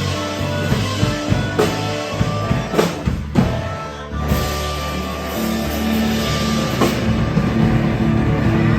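Rock music with drum kit, bass and electric guitar playing.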